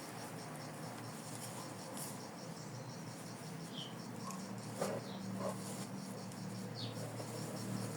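Faint rustling and soft scratching of stuffing being pushed into a felt toy with the points of scissors, with a few light ticks and a couple of short high chirps over a low steady hum.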